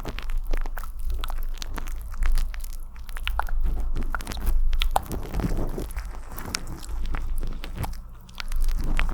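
Close-miked wet ASMR mouth sounds: an irregular run of quick clicks and smacks over a steady low hum.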